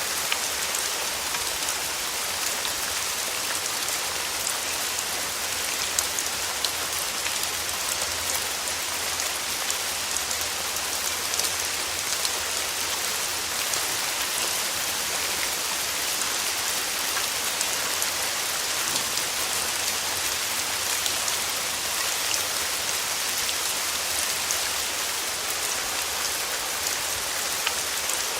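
Steady rain falling on a surface: an even hiss with many small drop ticks.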